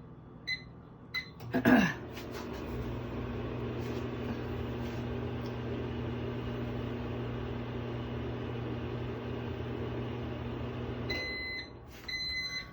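Microwave oven keypad beeps twice, then a clunk as the oven starts, and it runs with a steady low hum for about ten seconds. It shuts off and beeps at the end. No arcing crackle stands out from the hum.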